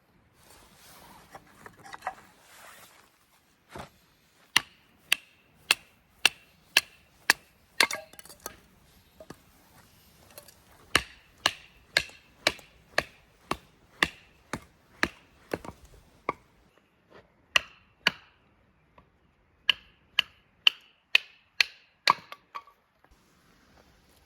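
A blade chopping on wood. The sharp strikes come in runs of about two a second, each with a short metallic ring, and pause briefly now and then.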